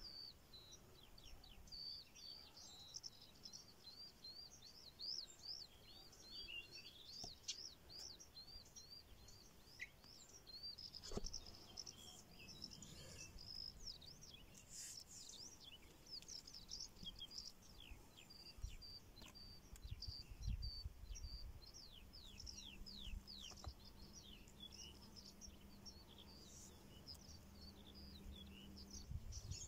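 Faint birdsong: quick, high chirps, several to the second, continuing throughout over quiet outdoor background noise, with a few soft low knocks.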